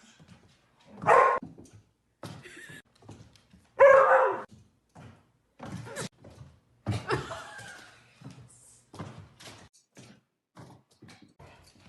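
A dog barking: two loud barks about a second and about four seconds in, then shorter, quieter sounds.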